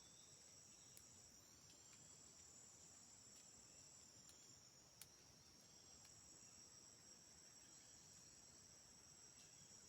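Faint, steady high-pitched insect chorus, a continuous trilling from the forest. A couple of small clicks come about one second and five seconds in.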